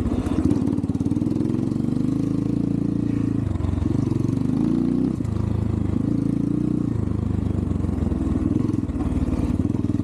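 Xpro Templar X 250cc dirt bike engine running at moderate throttle, its pitch rising and dropping several times as the throttle is opened and eased off.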